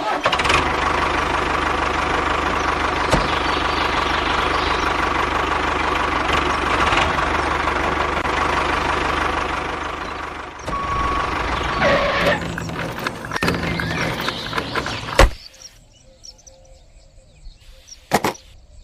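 A small motor running steadily with a thin whine, fading out about ten seconds in; after a few seconds of uneven mechanical sound, a single sharp knock, then much quieter.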